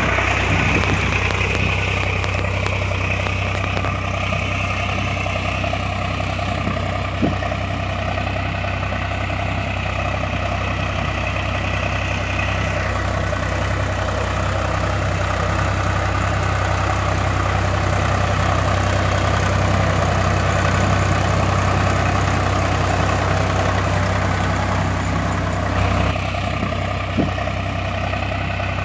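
Heavy diesel engine of a backhoe loader or tractor running steadily at idle, a constant low hum, with a couple of faint knocks.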